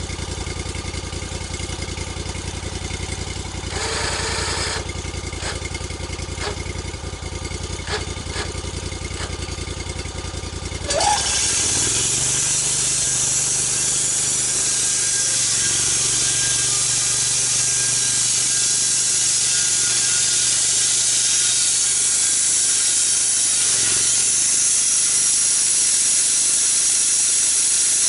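A gas engine on a log-milling saw idles, then about eleven seconds in it throttles up and the saw cuts into a log. A loud, steady hiss of the blade in the wood runs over the engine drone.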